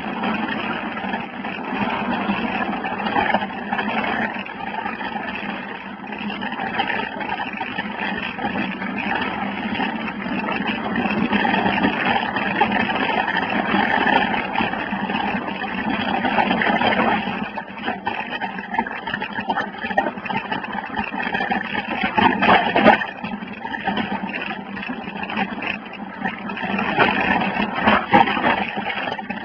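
Wind rushing over a phone microphone and a mountain bike rattling over a dirt trail while riding, swelling and fading, with a few sharp knocks from the bike about two thirds of the way in and near the end.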